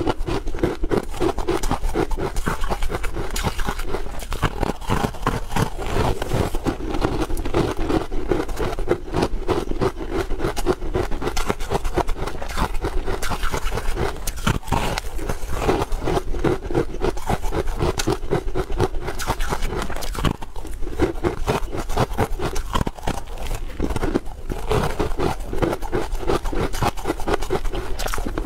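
Close-miked crunching and chewing of a crispy buckwheat snack bar: a continuous run of dense, irregular crunches and mouth sounds.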